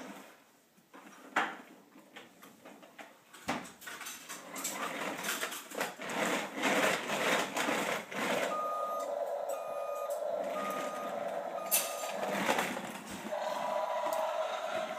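A truck's reversing alarm beeping at a steady pitch, about one beep a second for around four seconds in the second half, over rumbling vehicle noise.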